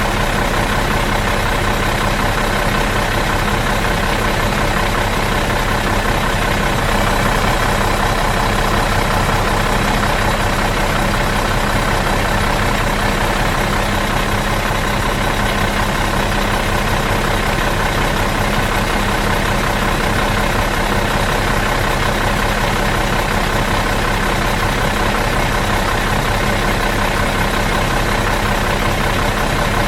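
Bus engine idling steadily out of gear, a constant even rumble with a steady hum that does not change.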